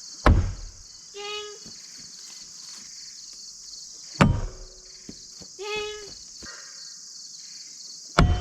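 Three thrown blades hitting a wooden throwing target with sharp thunks about four seconds apart, each followed about a second later by a short steady-pitched note. Crickets or other insects buzz steadily throughout.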